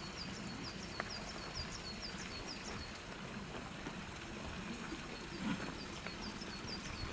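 A small bird calling: a quick run of short high chirps, about four a second, for the first three seconds or so, then again from about five seconds in, over a steady outdoor background hiss.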